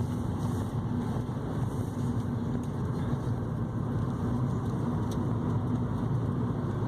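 Car engine and tyre noise from inside the cabin while driving, a steady low drone.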